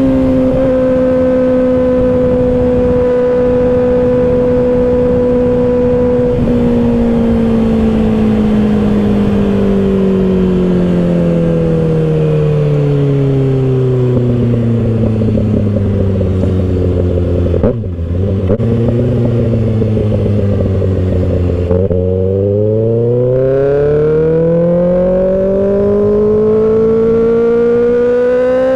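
Kawasaki Ninja ZX-6R 636 inline-four engine while riding: the note holds steady for several seconds, falls slowly for about fifteen seconds as the bike slows, breaks off briefly a couple of times, then climbs again over the last several seconds as it accelerates, with wind noise throughout.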